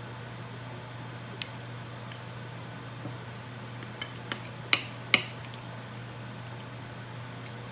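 A few light clinks and taps of a spoon against an ice cream container, the two loudest close together about five seconds in, over a steady low hum.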